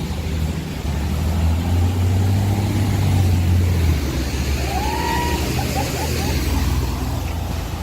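A car driving past on a flooded, rain-soaked road: a low engine rumble, loudest in the first half, with tyres hissing through the water.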